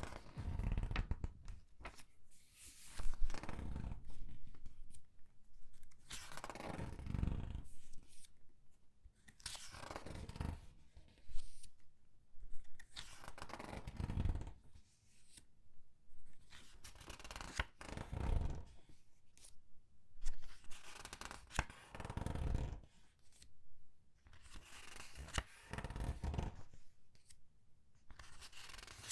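Pages of dollar comic books being turned slowly, with some squeezing, one after another: a paper rustle and crinkle with small snaps, about every two to three seconds.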